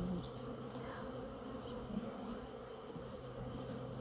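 Honeybees buzzing around an opened hive: a steady, low drone of many bees.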